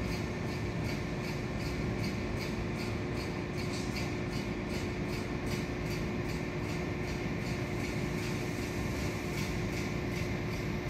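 Train running on the rails, heard as a steady rumble with a constant hum and faint, regular clicks about three times a second.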